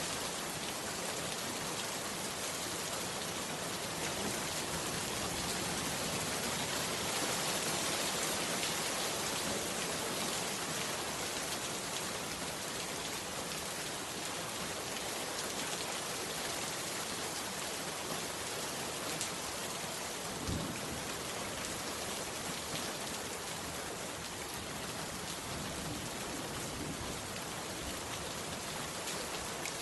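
Heavy rain falling steadily on a bamboo hut, a dense even hiss of rain. One brief low thump comes about two-thirds of the way through.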